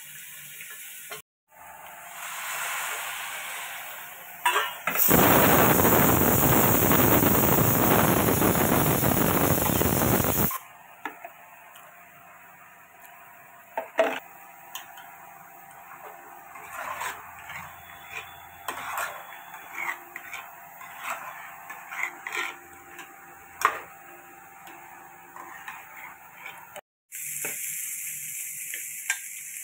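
Soaked chana dal being tempered in hot oil in a large steel pot: a loud sizzle for several seconds, then a steel ladle stirring and scraping against the pot with scattered clicks. Near the end, slivered almonds and pistachios sizzle as they fry in ghee while being stirred.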